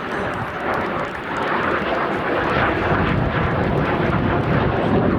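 Aero L-159 Alca jet's Honeywell F124 turbofan running in flight, a steady roar of jet noise that grows a little louder toward the end.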